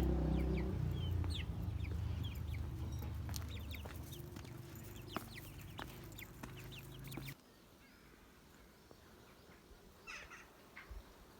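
Faint bird chirps, many short quick calls, over a low steady hum that cuts off suddenly about seven seconds in.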